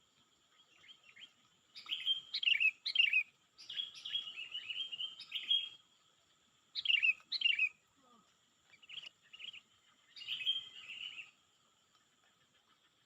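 Bird chirping in about five short bursts, each made of quick notes that sweep downward in pitch, with pauses of a second or so between bursts.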